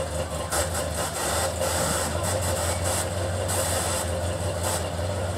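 Drag car's engine idling steadily with a deep low note, waiting to launch, with short bursts of hiss over it.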